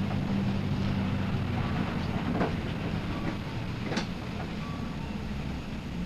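A city bus's engine running as the bus drives, heard from inside the cabin near the front. There are a couple of sharp rattling knocks, about two and a half and four seconds in, and the engine hum eases off slightly toward the end.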